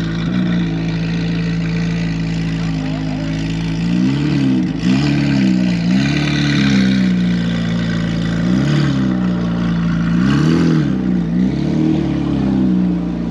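A car engine idling, blipped up in several quick revs that rise and fall back to idle.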